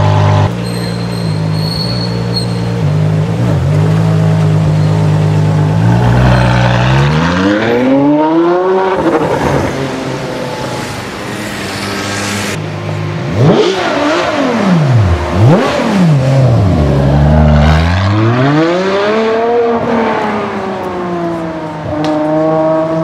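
Ferrari 599 GTO's V12 engine idling steadily, then the revs rising as it pulls away. Midway come a few quick blips of the throttle, each rising and dropping sharply, then another long climb in revs under acceleration.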